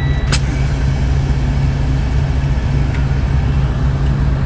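Steady low rumble of a moving truck's engine and road noise heard inside the cab. A single sharp click comes about a third of a second in.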